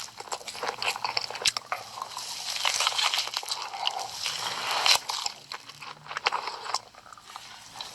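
Close-miked mukbang eating: crunching and chewing of crisp Hot Cheetos, with many sharp crackly bites in quick succession.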